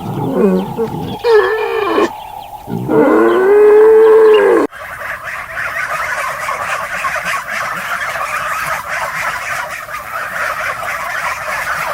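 Animal calls: several short pitched calls, then a long, loud call that rises and falls in pitch, cut off suddenly about four and a half seconds in and replaced by a dense, steady chatter of many quick calls.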